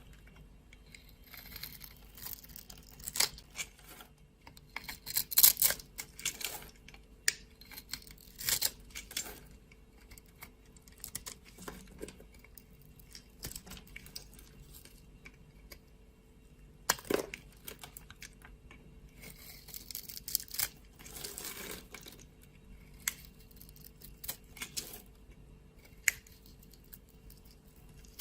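Knife cutting and scraping through a bar of dry soap: irregular crisp crunches, snaps and short scrapes with quiet gaps between, a run of louder crunches around five seconds in and one sharp crack about seventeen seconds in.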